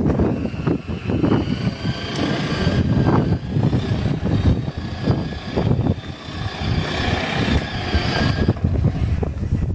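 A vehicle running: uneven rumbling noise with a faint steady high whine running through it.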